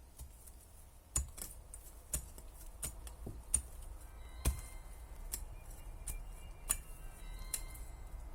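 Campfire crackling: sharp, irregular clicks and pops roughly every half second to second. From about halfway through, a faint tinkling melody of short notes from a mobile phone alarm rings in the background.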